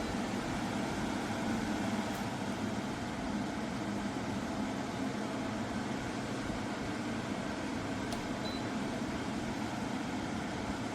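Portable air conditioner running with a steady hum and whoosh of its compressor and fan.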